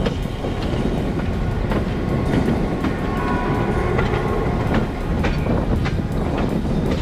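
Train rolling past, a steady low rumble with irregular clicks of the wheels over the rails.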